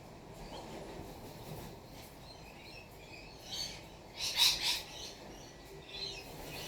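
Wild birds calling: a few short, scratchy calls over low background noise, the loudest lasting about half a second a little past the middle.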